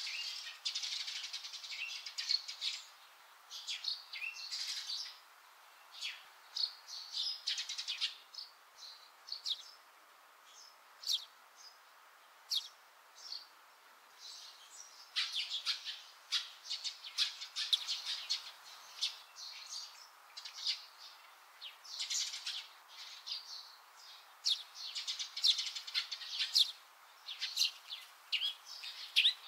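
Small birds chirping, many short high chirps in quick runs broken by brief pauses.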